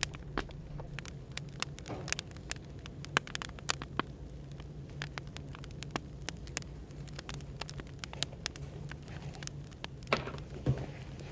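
Wood fire crackling with irregular sharp pops and snaps, over a steady low hum of café background noise.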